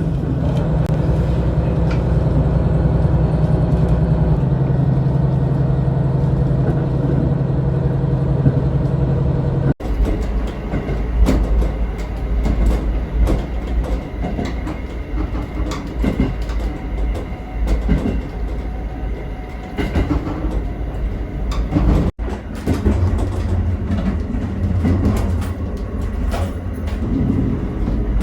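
Diesel railcar's engine running with a steady low hum. About a third of the way in the sound cuts to the train under way: a low rumble with rail joints clicking. It cuts again, with the same running sound, near the last quarter.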